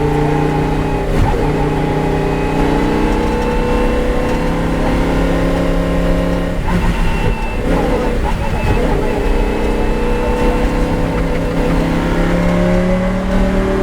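Lamborghini Huracán race car's V10 engine running hard under load, its pitch climbing slowly. About halfway through the note breaks up and wavers, then it climbs again near the end.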